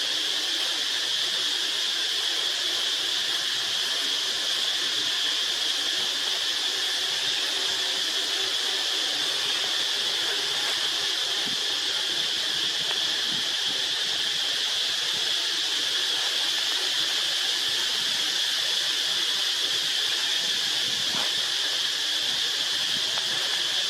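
Steady high-pitched drone of insects, such as cicadas, holding one unbroken pitch.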